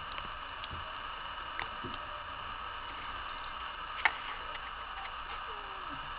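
Scattered faint ticks and clicks over a steady hiss, with one sharp click about four seconds in.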